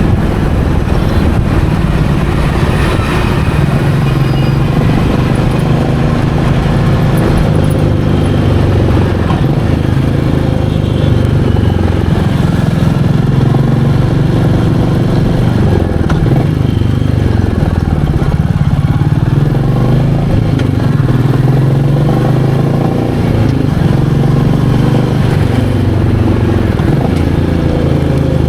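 Royal Enfield Meteor 350's single-cylinder engine running under way, its note rising and falling several times as the rider opens and closes the throttle.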